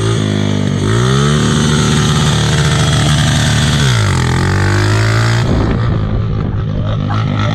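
Small vehicle engine revving. It climbs about a second in, holds at high revs for a few seconds, drops back, then falls lower and starts to rise again near the end.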